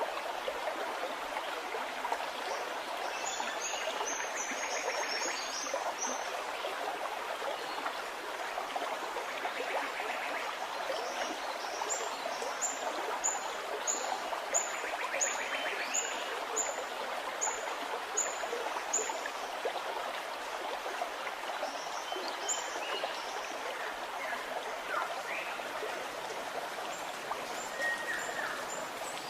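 Small stream gurgling steadily, with birds singing high over it: a quick cluster of chirps about three seconds in, then a run of about ten evenly spaced high notes around the middle, and a few scattered calls near the end.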